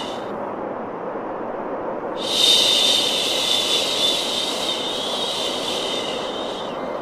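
Steady white noise for baby sleep, with a long soft "shh" shushing sound laid over it. The shush starts about two seconds in and fades out near the end.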